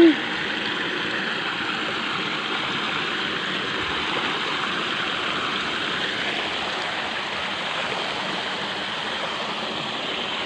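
Water of a small stream running steadily. A pitched hooting call ends right at the very start.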